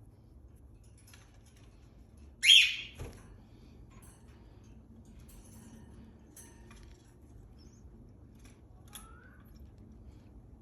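Cockatiel giving one short, loud call about two and a half seconds in, then a few soft chirps, with a short rising chirp near the end.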